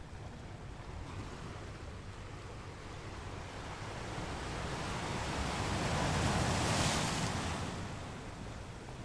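Waves washing on open water: a rush that swells over a few seconds and is loudest about two-thirds of the way in, then dies away, over a steady low rumble.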